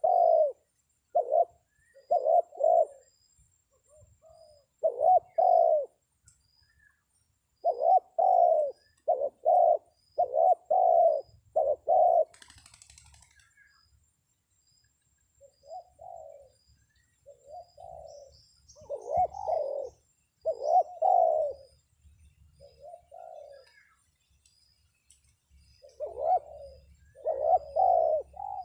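Spotted doves cooing in repeated groups of short, low coos, the lure call used to draw wild doves down to a trap. A brief rustle about twelve seconds in.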